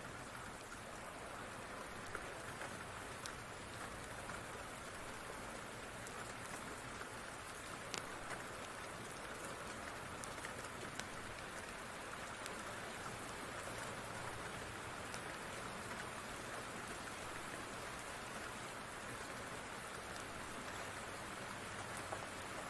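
Steady rain falling, with scattered sharp pops and crackles from a wood fire.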